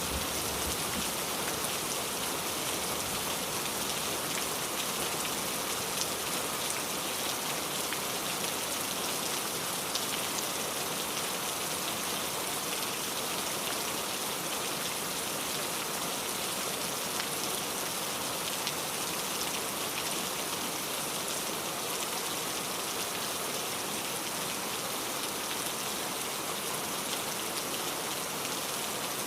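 Steady rain falling, with many small drops pattering on a surface in an even hiss.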